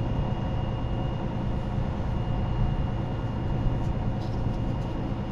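A steady low mechanical rumble with a faint, steady high whine above it, and a few light ticks about four seconds in.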